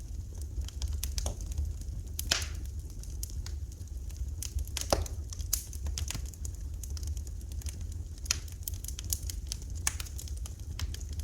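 Wood fire crackling in a fireplace: irregular sharp pops and snaps, with louder ones about two and five seconds in, over a steady low rumble.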